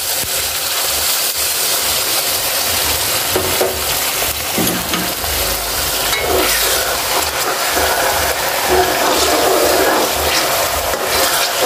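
Chopped onions and ginger-garlic paste sizzling steadily in hot ghee in a steel kadai while being stirred with a spoon: the mixture is being fried (bhuna).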